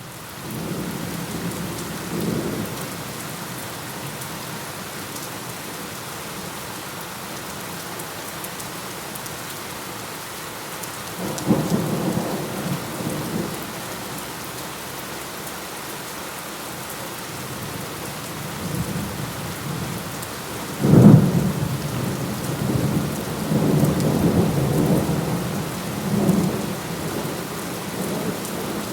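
Steady rain falling, with thunder rumbling over it: a short rumble a couple of seconds in, a longer roll a little before halfway, and the loudest clap about two-thirds of the way through, rolling on in waves until near the end.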